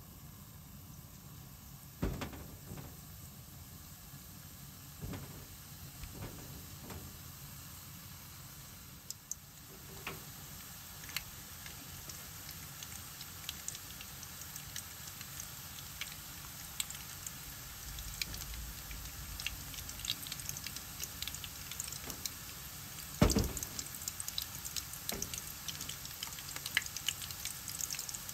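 Flour-battered shrimp frying in hot oil in a pan: a steady sizzle with fine popping crackles that grow busier after about ten seconds. A sharp knock sounds about two seconds in, and a louder one about five seconds before the end.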